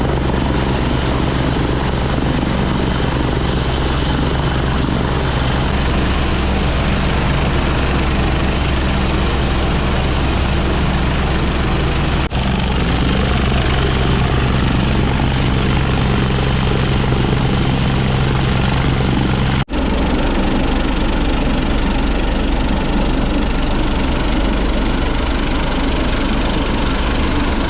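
Helicopter running steadily and loudly, a dense rotor and engine noise with strong low hum. It breaks off abruptly for an instant twice, about 12 and 20 seconds in.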